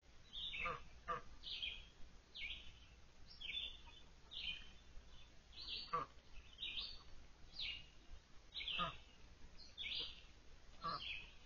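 A bird calling over and over, a short high chirp about once a second, some of the notes sweeping sharply down in pitch.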